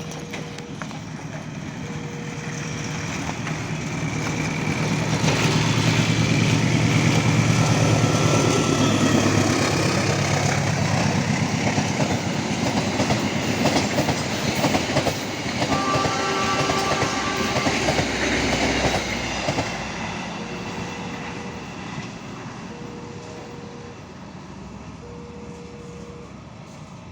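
Train passing close by with clickety-clack over the rail joints. The sound rises to a loud pass, the horn sounds a chord for about three seconds a little past the middle as the Semboyan 35 horn signal, then the train fades away. A level-crossing warning alarm beeps in a slow repeating pattern at the start and again as the train recedes.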